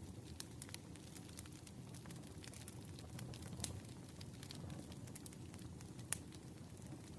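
Burning firewood crackling: a steady low rush with frequent sharp snaps and pops, a louder pop midway and another near the end.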